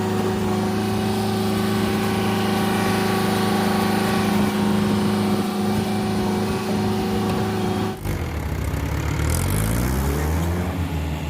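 Diesel engine of a Bull backhoe loader running steadily at a constant speed. After an abrupt change about eight seconds in, an engine revs up with its pitch climbing.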